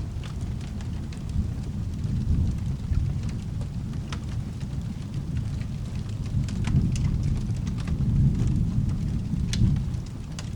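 Rain with a low rolling thunder rumble that swells louder in the second half, with scattered sharp ticks over it.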